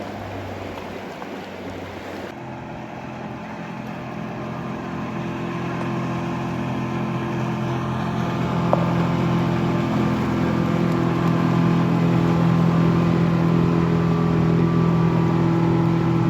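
Motorboat engine running with a steady drone, growing louder over the first ten seconds or so as the boat approaches, then holding level.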